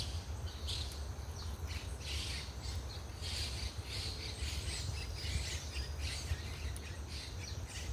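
Birds chirping and squawking, mixed with repeated short scratchy rasps, over a steady low rumble.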